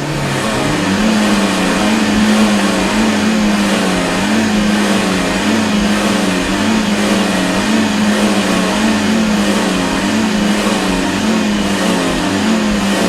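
Car engine revved by rapid pumping of the gas pedal. It climbs in pitch over the first second, then holds at high revs with small regular dips about once a second as the pedal is worked.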